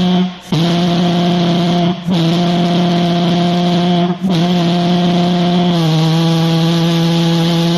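Gasoline model pulse jet engine running with a loud, steady buzz. It cuts out briefly three times in the first four seconds and catches again each time, then settles at a slightly lower pitch about six seconds in.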